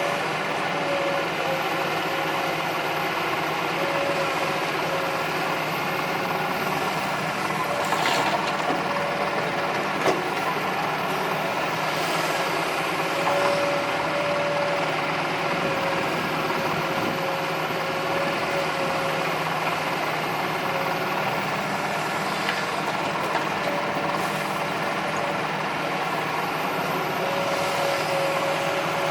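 Heavy diesel engine running steadily under work, with a whine that rises and fades several times and a couple of sharp knocks about a third of the way in.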